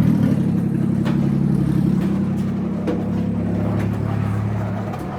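Car engine running steadily, with a few light clicks or rattles scattered through.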